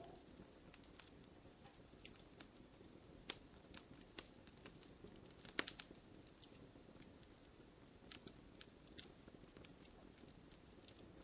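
Wood fire burning in a fireplace, crackling softly: irregular sharp pops and snaps over a faint low hiss, with a quick run of louder snaps about halfway through.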